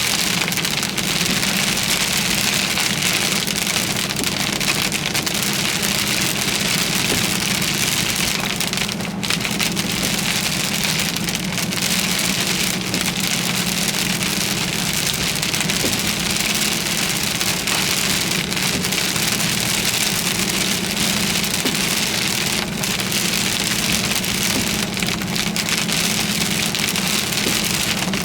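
Heavy rain pelting a car in a severe thunderstorm, a dense, steady hiss, with a steady low hum from the car underneath.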